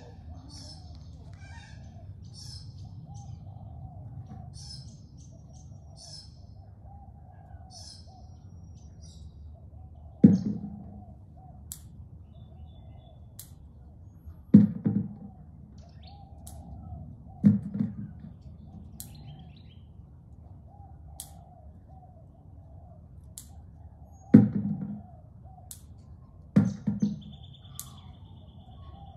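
Garden birds chirping over a steady low background hum, with the chirps clearest in the first several seconds. About six dull thumps come at irregular intervals through the second half and are the loudest sounds.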